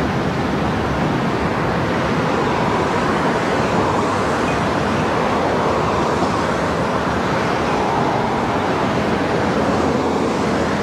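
A passing train: the steady rush of wheels rolling on rail, loud and even throughout.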